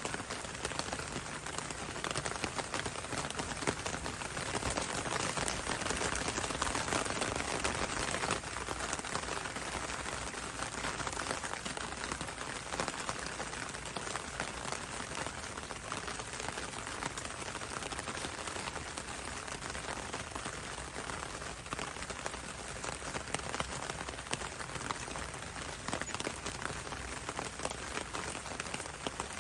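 Steady rain with raindrops pattering on leaves, a dense mix of drip ticks over a continuous hiss. It is a little heavier in the first few seconds.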